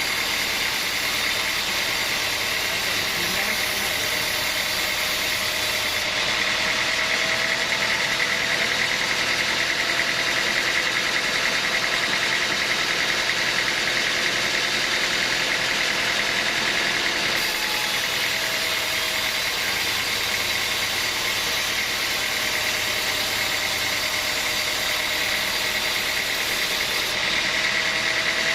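Sawmill machinery running steadily: a constant loud mechanical drone with a high steady whine over it.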